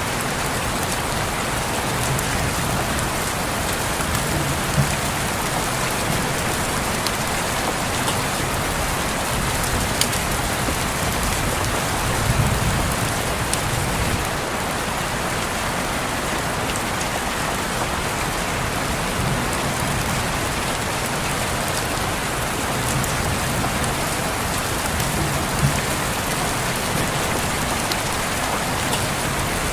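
Steady rain falling and pattering on a window, a dense even hiss with scattered sharper drop ticks and occasional low swells.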